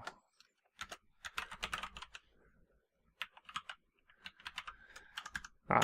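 Typing on a computer keyboard: quick runs of key clicks in short bursts, with a pause of about a second in the middle.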